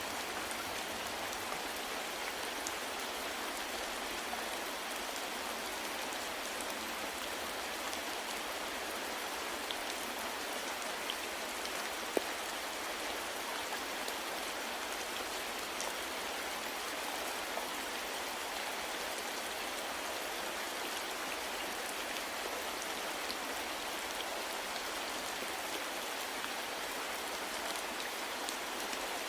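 Steady soft rain falling, an even hiss with scattered individual drop ticks; one sharper drop tick about 12 seconds in.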